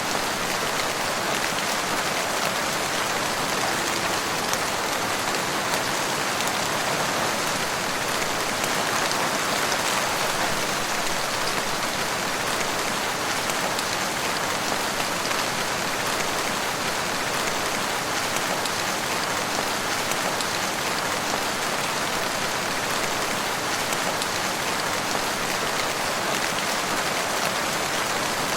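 Steady rain falling, an even, constant hiss of drops with no change in strength and no thunder.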